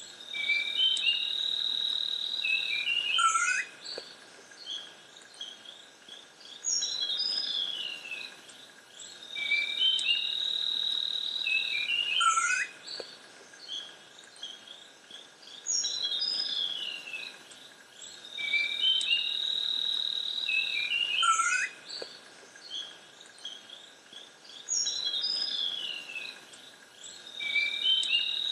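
Rainforest ambience of birds and insects: a steady high insect buzz lasting a couple of seconds alternates with bird chirps and quick falling whistled calls. The same pattern repeats about every six seconds.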